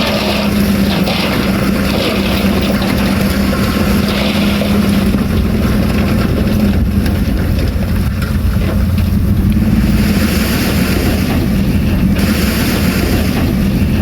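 Heavy earthmoving machine's diesel engine running steadily and loud: a steady drone in the first half, with a deeper rumble taking over about halfway through.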